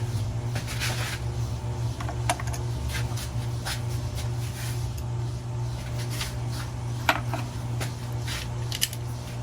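Irregular clicks and light metal knocks from a ratchet with long socket extensions being worked down onto a spark plug, over a steady low hum.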